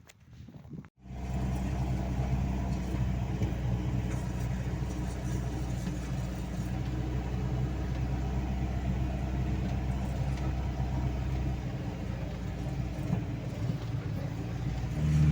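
The all-terrain vehicle's Toyota 1NZ-FE 1.5-litre four-cylinder petrol engine running steadily. It comes in abruptly about a second in and gets louder near the end.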